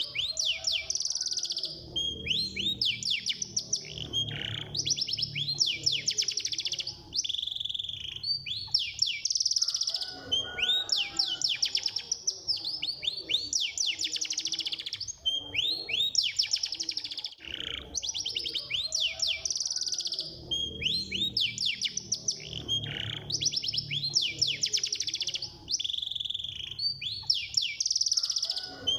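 Domestic canary singing a long, continuous song of fast trills and rapid repeated sweeping notes, with barely a pause.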